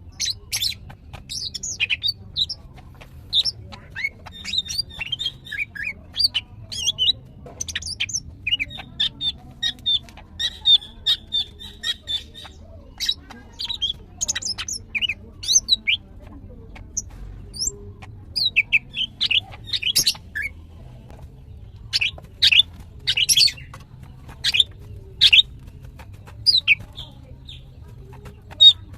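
Female green leafbird (cucak ijo) calling in rapid runs of sharp, high chirps and squeaky notes, with a short pause about halfway through. It is a hen in breeding condition, the kind of song keepers play to set silent males singing. A low hum runs underneath.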